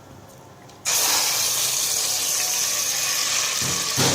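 Chicken pieces dropped into hot oil in a pressure cooker, frying with a loud steady sizzle that starts suddenly about a second in. A couple of short knocks near the end.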